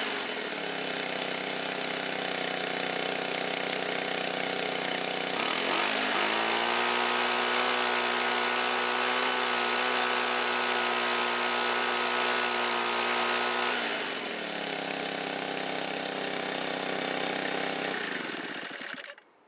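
Shindaiwa EB254 blower's small four-stroke engine running, rising in speed about six seconds in, holding there, then dropping back and stopping abruptly near the end. It won't come up to full throttle, which the owner puts down to stiff carburetor diaphragm and pump parts after long storage.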